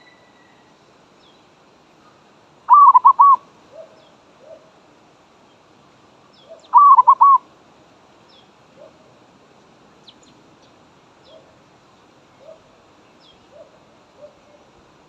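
Zebra dove (merbok) cooing: two loud, fast rolling coos, about 3 and 7 seconds in, with fainter short coos and a few faint high chirps from other birds between them.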